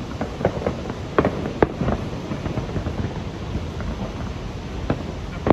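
Aerial fireworks bursting: scattered sharp bangs and crackles, a few a second apart, over a steady low rumble.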